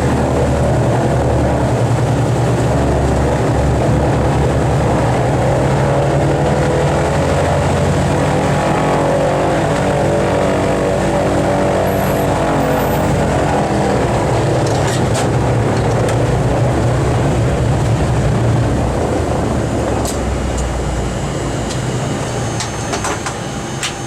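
The Boeing B-29's four Wright R-3350 radial engines running, heard from inside the aircraft. The engines beat slowly against one another, and the sound eases off over the last several seconds as the power comes down.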